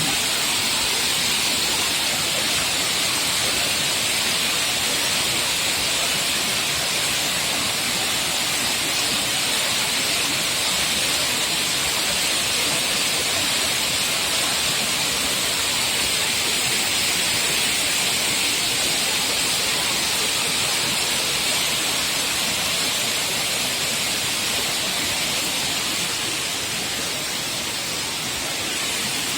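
Waterfall: falling water pouring onto rock in a steady, unbroken rush with a strong hiss.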